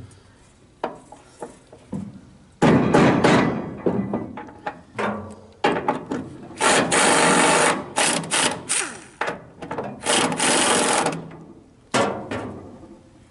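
Tool work on a trailer: a few sharp knocks, then a string of loud noisy bursts, several lasting about a second, with knocks and clatter between them.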